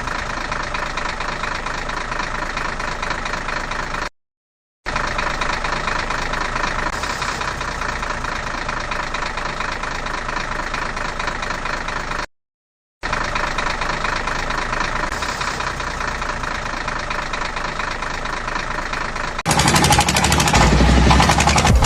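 A vehicle engine running steadily, broken by two short gaps of total silence. Near the end, louder music with rapid hits cuts in.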